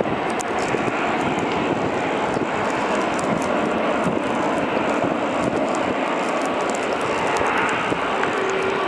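Jet airliner's engines running, a loud, even rushing noise with no change in level, and faint steady tones coming through near the end.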